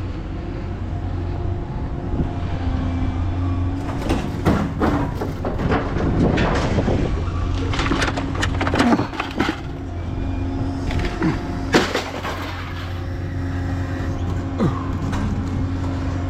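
A vehicle engine idling steadily under a series of clanks, knocks and rattles between about four and twelve seconds in, as scrap metal is handled.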